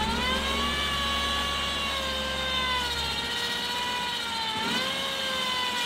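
A car's engine revving hard and held high while the wheels spin in mud, trying to drive the car free. The pitch dips briefly about four and a half seconds in, then comes back up.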